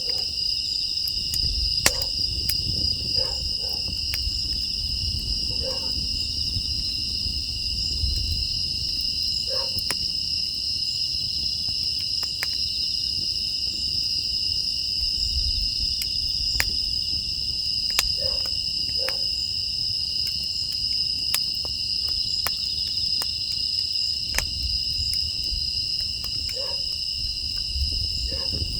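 Steady chorus of crickets chirping in two high bands, with sharp irregular crackles and pops of a wood fire burning in a firebox and a low rumble beneath.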